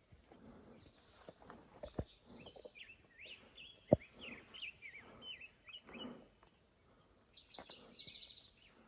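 A bird sings a run of quick chirping notes, then a fast high trill near the end, over hikers' footsteps on a rocky trail. A sharp knock about four seconds in is the loudest sound.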